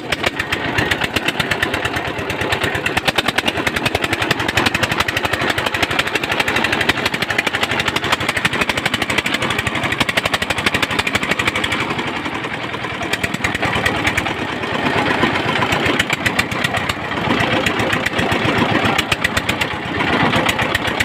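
Motor boat engine running steadily with a fast, even chugging.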